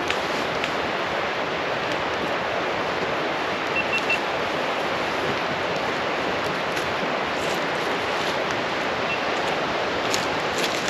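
A steady, even rushing noise, like running water or wind, with a few faint clicks, most of them near the end.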